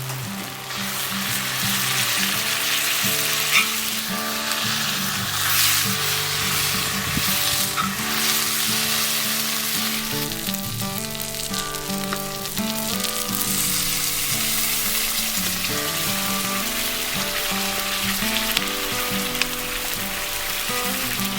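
Assassin's pasta sizzling and frying in a pan over a fire pit, the pasta searing in its sauce to build a charred crust. A steady hiss with a few crackles, over background music.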